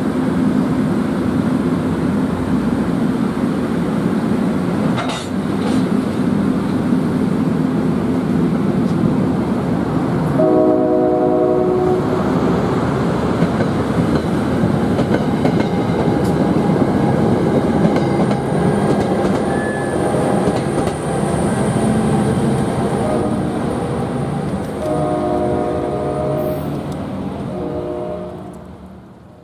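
NJ Transit commuter train of bilevel coaches passing close by, wheels rumbling and clacking on the rails. A train horn sounds about ten seconds in and again a few seconds before the end. The rumble fades away quickly as the last car clears.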